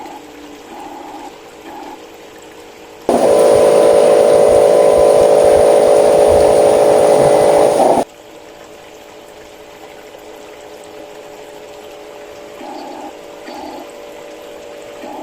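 Small electric motor of a 1/14-scale RC construction model running steadily. About three seconds in it switches to a much louder whine under load for about five seconds, then stops suddenly.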